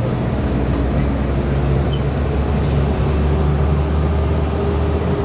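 Diesel engine of a VW 17.230 OD bus running, a steady low drone with a faint high whine slowly rising in pitch.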